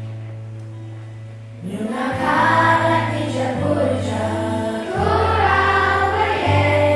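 Song with a sustained accompaniment holding steady low notes, joined about a second and a half in by a children's choir singing together.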